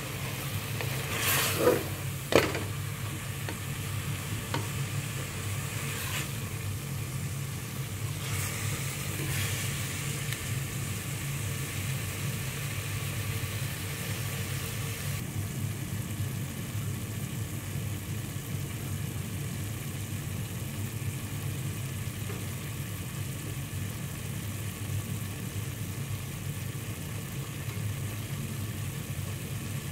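Minced meat, onions and tomatoes sizzling in oil in a metal pot, with a spatula scraping and knocking against the pot a couple of times in the first few seconds. A steady low hum runs underneath.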